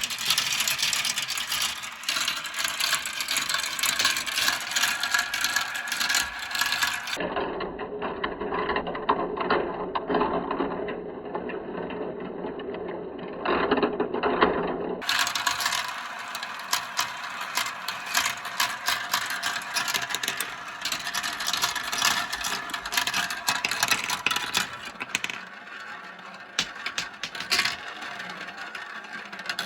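Many marbles rolling and clattering down a plastic marble-run track, a dense stream of clicks and rattles. About a quarter of the way in, the sound turns duller with a lower rolling rumble for some eight seconds, then the bright clatter returns.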